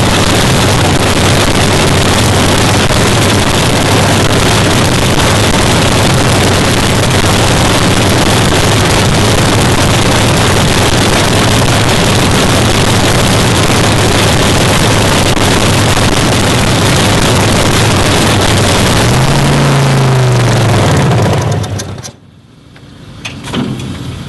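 The fuel altered drag car's Chrysler V8 running loud and steady at idle, a cacklefest. Near the end the pitch sags and swings, then the engine cuts off about 22 seconds in, leaving a few light knocks.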